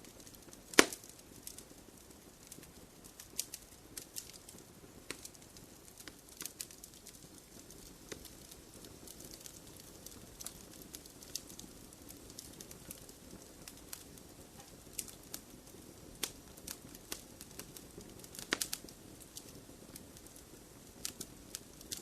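Wood fire crackling in a fireplace: irregular sharp pops and snaps over a soft steady hiss, with a loud pop about a second in and a quick cluster of pops late on.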